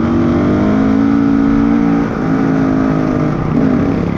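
Off-road motorcycle engine running under throttle, its pitch shifting as the throttle eases off briefly about halfway through and again near the end.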